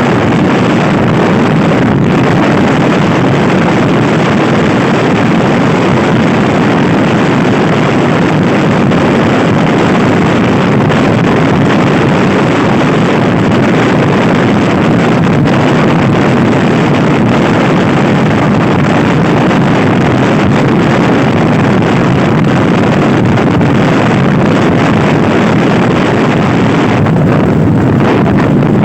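Loud, steady wind buffeting the microphone of a Honda Scoopy-i scooter ridden at speed, drowning out most of the engine.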